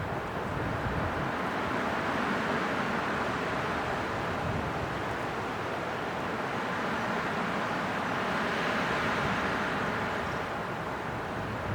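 Winter wind blowing steadily, a hissing rush that swells in two slow gusts.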